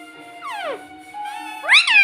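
Ringneck parrot calling: one call sliding down in pitch about half a second in, then a louder call that rises and falls near the end.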